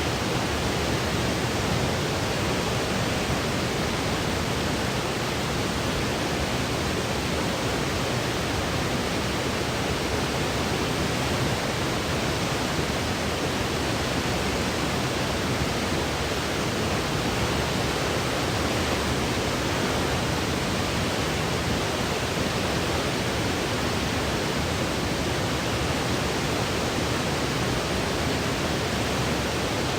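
Steady white noise for sleep: an even, unchanging hiss with no other sounds.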